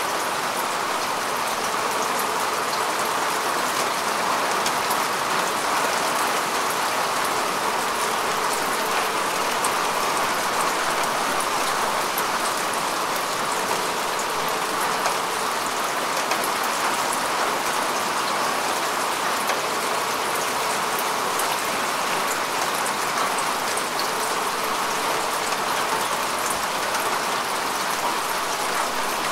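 Steady rain falling on grass and earth: a dense, even patter with individual drops ticking through it.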